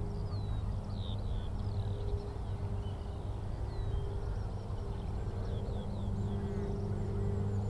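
A steady low engine drone with a few evenly spaced pitches, under scattered short chirps and downward-sweeping calls of small birds.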